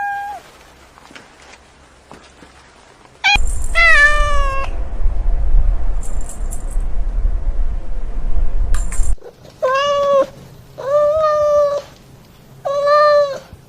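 Domestic cat meowing: one meow about three seconds in, with a loud low rumble under it for several seconds, then three short meows in a row near the end.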